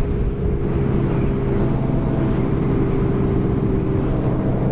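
Motorcycle engine running steadily under way, holding an even note, with wind noise over the helmet microphone.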